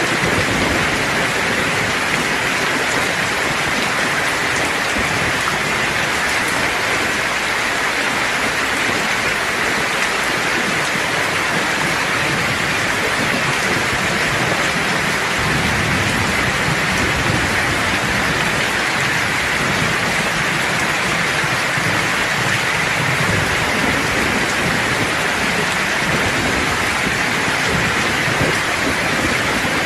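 Steady rain falling, an even hiss, with a low rumble of distant thunder in the middle.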